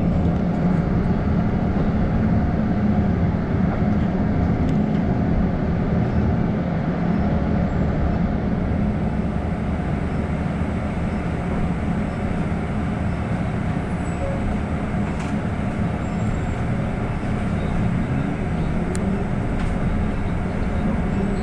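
Steady running noise inside a city bus: a low hum from the drivetrain over road noise. Near the end a rising whine begins as the bus speeds up.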